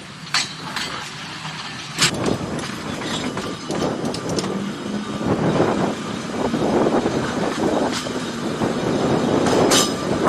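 Narrow-gauge electric tram running along its track, the wheels rumbling on the rails with a few sharp clicks and the sound growing louder through the middle. It cuts off suddenly at the end.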